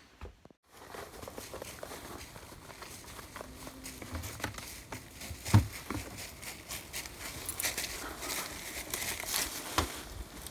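Close handling noise: rustling and light clicks, with a sharp knock about five and a half seconds in and another near the end.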